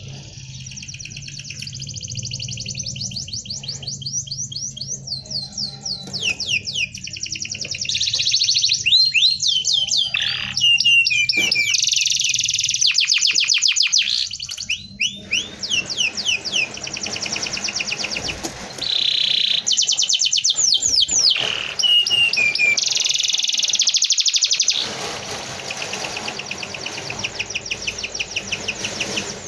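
Domestic canary singing a dense rolling song of fast trills and rapid repeated notes, some of them quick falling sweeps. The song comes in loud phrases broken by short pauses.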